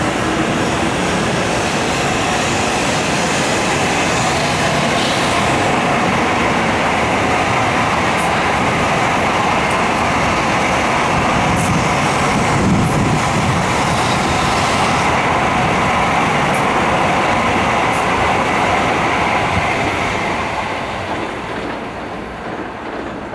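N700 series Shinkansen train running past on the rails, a steady rushing rail noise with a few faint sharp clicks. It fades over the last few seconds as the tail end goes by.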